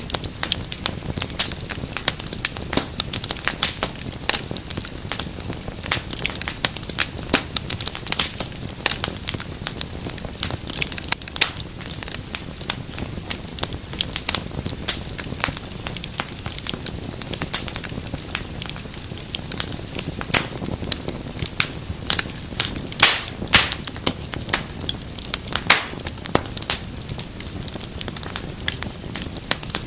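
Wood fire crackling and popping: dense, irregular sharp snaps over a steady low rumble of flames.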